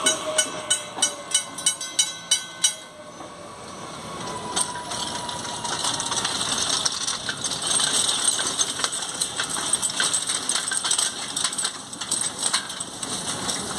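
Electric commuter train at the station: evenly spaced metallic clicks with a ringing tone, about three a second, stop about three seconds in while a whine glides down in pitch; then a steady hissing rush with fine crackling as the train runs on the rails.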